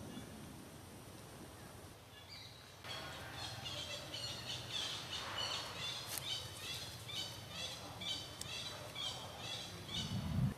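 A bird calling over and over in short, high chirps, a few each second, starting about three seconds in, over faint outdoor background noise.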